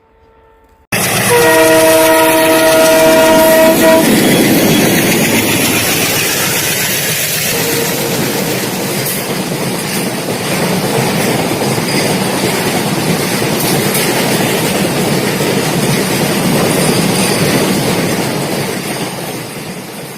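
A diesel-hauled freight train passing close by. Its air horn sounds a chord of several steady tones for about two and a half seconds. The wheels then clatter and rumble over the rail joints, loud throughout, and fade near the end. The sound begins abruptly about a second in.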